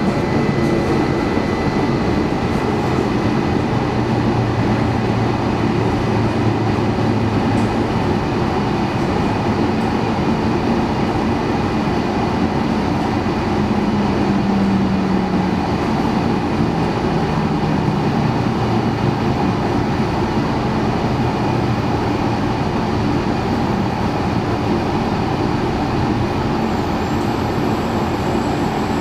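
Steady rumble and hum of an E2 series 1000 Shinkansen train at a station, with no sharp door or chime sounds standing out.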